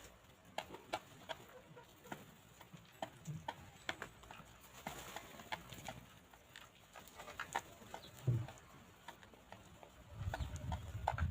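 Chickens pecking at the ground: scattered, irregular sharp taps, with a low rumble near the end.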